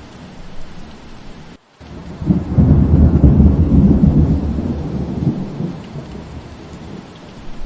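Steady rain with a roll of thunder: a low rumble comes in about two seconds in, is loudest about a second later, and slowly dies away. Just before the thunder, the sound cuts out completely for a split second.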